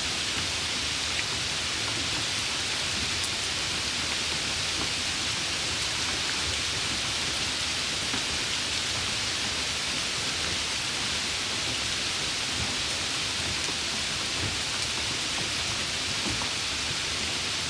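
Steady rain falling: a dense, even hiss with no let-up.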